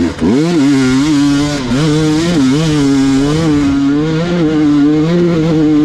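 Gas Gas EX 300 two-stroke enduro motorcycle engine pulling under throttle, the revs climbing sharply at the start, then rising and dipping as the throttle is worked.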